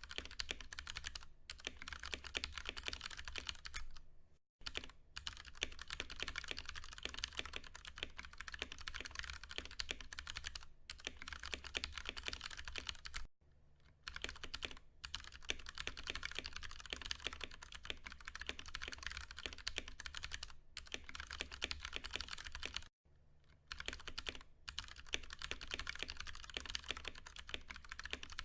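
Fast, continuous typing on a Ducky One 2 Mini mechanical keyboard with Cherry MX Brown tactile switches, a dense run of keystroke clicks and clacks. The typing breaks off briefly three times, after about four seconds, midway through and about two-thirds of the way in.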